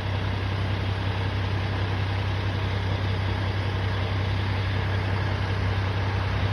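Semi-truck's diesel engine idling steadily, a constant low hum with no change in speed.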